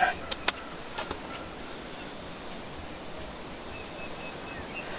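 Steady outdoor ambient hiss over open country, with a few sharp clicks in the first second. Near the end, a row of faint, evenly spaced high chirps, about three a second.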